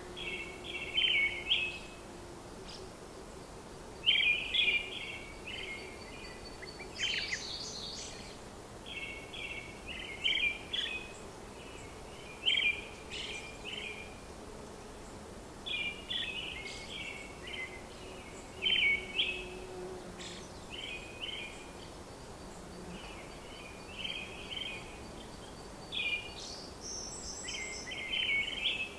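Small birds chirping in short bursts every second or two over a steady background hiss.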